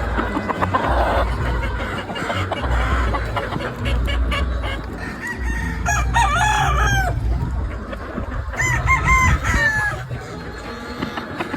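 Gamefowl roosters crowing, two long crows about six and eight and a half seconds in, with chickens clucking around them.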